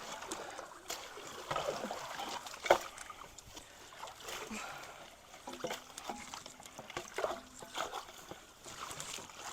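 Creek water splashing and trickling around people wading and working at a log clog, with irregular splashes and one sharp splash or knock nearly three seconds in.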